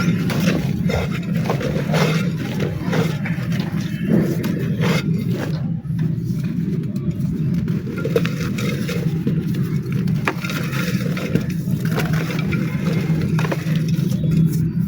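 Dry black mud being crumbled and crushed by hand, a dense, irregular run of crunches and crackles over a steady low hum.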